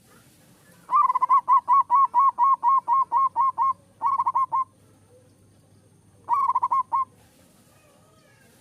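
Zebra dove (perkutut) singing: a run of about fourteen quick, evenly spaced cooing notes, about five a second, then two shorter, faster bursts of notes.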